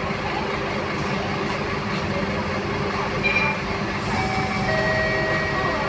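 Scania K230UB city bus heard from inside while riding: its five-cylinder diesel engine and drivetrain running steadily. About four seconds in, a steady whine with several held tones joins the hum.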